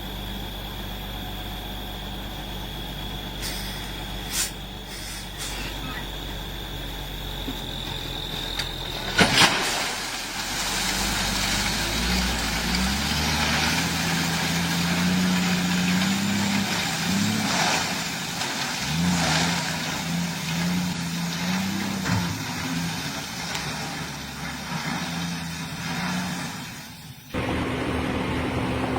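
A diesel dump truck's engine runs steadily, with a sudden sharp burst about nine seconds in. After that the engine revs up and down unevenly as the truck works. The sound changes abruptly near the end.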